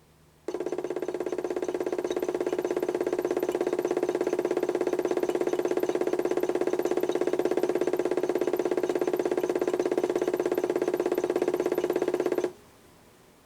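Modified toy washing machine running its HUSTOO 775 motor, which turns the drum through a pulley, for about 12 seconds: it starts abruptly about half a second in, runs steadily with a fast rhythmic pulsing, and stops abruptly near the end, a typical wash-cycle tumble between pauses.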